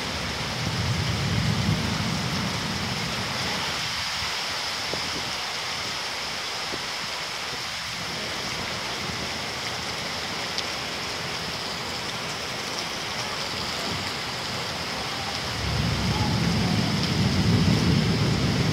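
Heavy rain pouring down steadily onto water and trees. Twice a low rumble swells up under it, once near the start and again over the last few seconds.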